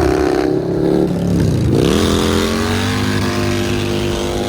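Custom Harley-Davidson's big-cube V-twin engine running. The revs drop about a second and a half in, then climb back and hold steady.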